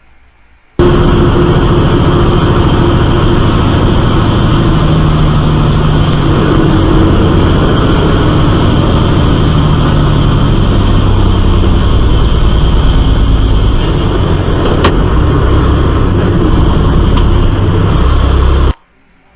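Loud, steady vehicle engine and road noise that starts abruptly about a second in and cuts off abruptly near the end, with a single click about fifteen seconds in.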